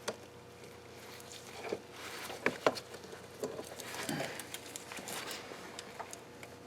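Light, scattered clicks and small rattles of a KA24DE engine's timing chain being fed down past the cylinder head and worked around its sprockets by hand.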